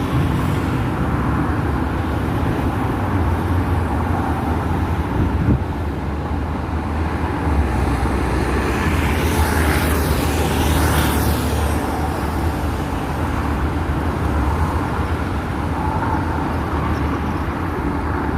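Road traffic at a signalled junction: a steady low rumble of car engines and tyres, with one vehicle swelling louder as it passes close about ten seconds in and a short knock about five seconds in.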